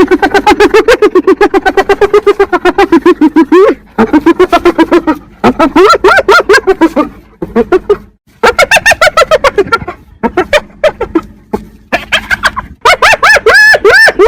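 Spotted hyena giggling: fast runs of staccato, laugh-like calls, several notes a second, broken by a few short pauses, with the notes rising and falling in pitch near the end.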